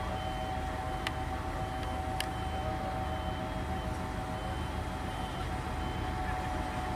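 Diesel-hauled passenger train running into a station: a steady low rumble with a constant hum, a faint high beep going on and off, and two sharp clicks in the first couple of seconds.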